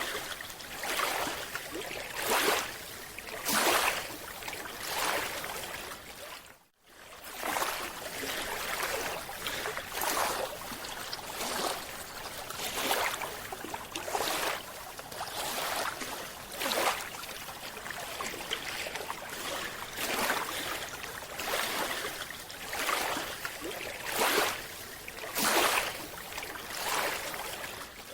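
Water swishing and sloshing in repeated surges, roughly one a second, with no pitched tones. It breaks off for an instant about seven seconds in.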